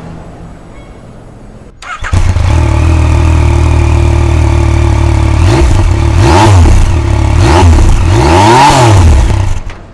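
A Yamaha Tracer 900GT's inline three-cylinder engine starts about two seconds in and settles into a loud, steady idle. It is then revved three times, each rev rising and falling back to idle.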